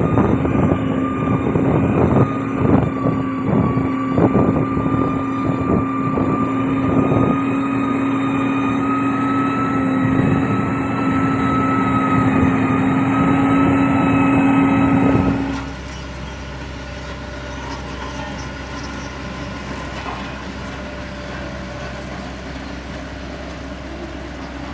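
Diesel engine of a heavy road-construction machine running at a steady pitch, with irregular knocks and clanks over the first several seconds. About fifteen seconds in the sound cuts off abruptly to a quieter, steady engine hum.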